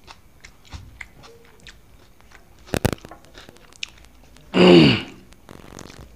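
A man chewing and eating rice by hand from a banana leaf, with small wet mouth and finger clicks throughout and a sharp double click nearly three seconds in. About four and a half seconds in comes the loudest sound, one short voice-like sound falling in pitch.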